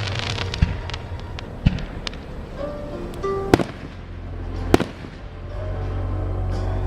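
Aerial fireworks bursting: a crackling hiss at the start, then four sharp bangs spaced a second or so apart.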